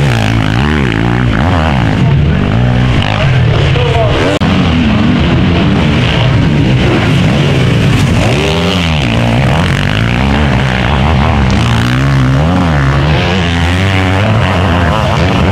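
Several motocross motorcycle engines racing close together, loud, their pitch rising and falling over and over as the riders open and close the throttle.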